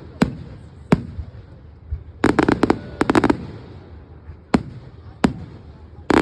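Fireworks going off: sharp bangs, some single and some in quick clusters of several, over a low rumble.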